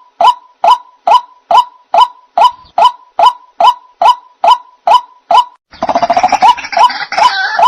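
White-breasted waterhen (ruak-ruak) calls: a regular series of short, sharp calls, about two a second. Just before six seconds in they give way to a louder, denser stretch of overlapping calls.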